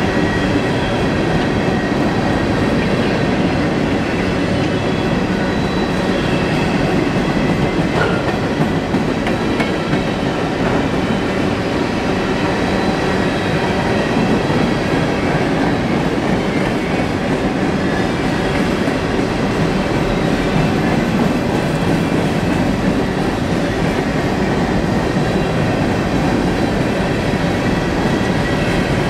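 Coal hopper cars of a freight train rolling past close by: a steady, unbroken rumble and clatter of steel wheels on the rails.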